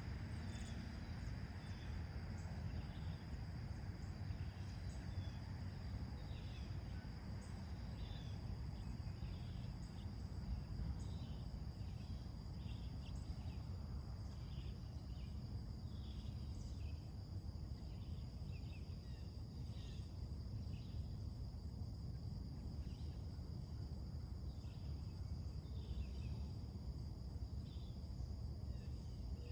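Short, scattered bird chirps over a steady high-pitched insect trill, with a constant low rumble underneath.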